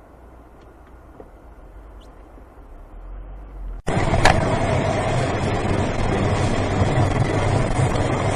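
Faint low vehicle rumble, then an abrupt cut about four seconds in to much louder, steady car noise with a low engine hum and a few sharp clicks.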